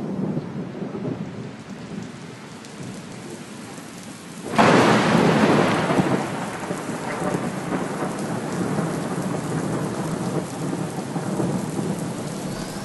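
Thunderstorm: steady rain with low rumbling thunder, then a sudden loud thunderclap about four and a half seconds in that rolls on and slowly dies away under the rain.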